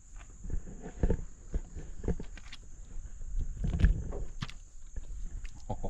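Crickets trilling steadily in a high, even band, with irregular close knocks and crackles over them, the loudest about a second in and near four seconds in.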